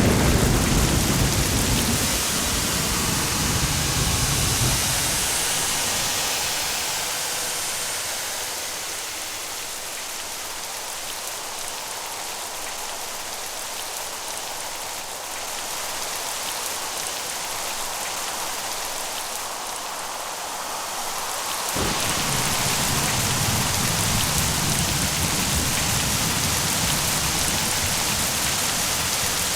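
Steady heavy rain hissing, with thunder rumbling low at the start and dying away over about five seconds. About 22 seconds in a sharp thunderclap sets off a fresh low rumble that carries on to the end under the rain.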